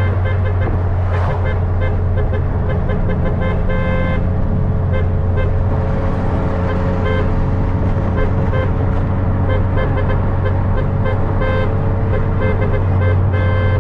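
Tuned VW with a catless downpipe and custom exhaust, heard from inside the cabin while cruising. It gives a steady, loud low exhaust drone with road noise, holding even speed throughout.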